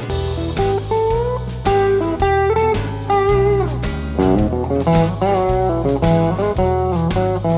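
Electric blues lead from a 1989 Fender Telecaster's single-coil pickups through a Vox AC10C1 tube amp, single notes and licks with string bends that rise and fall in pitch. Underneath runs a blues shuffle backing track with bass and steady drum beats.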